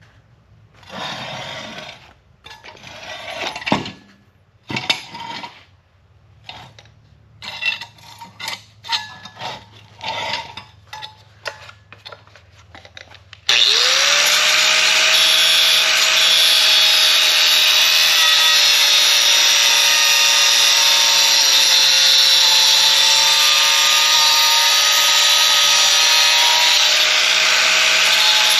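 Irregular rubbing and scraping strokes on metal. About halfway through, a power tool starts abruptly and runs steadily with a hissing grind; its motor tone rises quickly and then holds.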